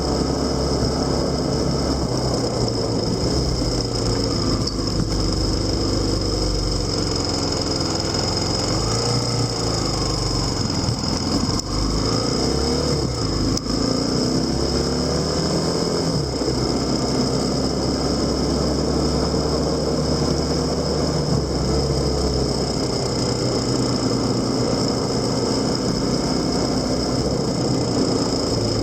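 Motorcycle engine running under way, its pitch rising and falling with changes in speed over the middle of the stretch, over a steady low rumble. A steady high-pitched whine sits on top.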